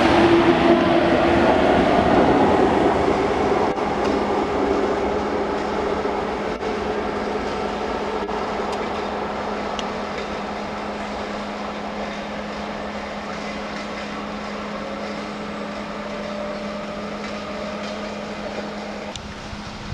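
A passenger train running past at close range, its rumble and wheel noise fading steadily as it moves away, with a steady low hum underneath.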